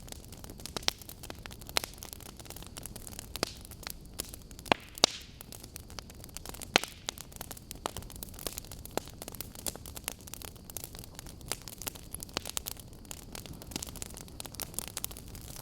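Wood logs burning with irregular crackles and sharp pops over a steady low hiss, with the loudest pops a little under five seconds in and near seven seconds in.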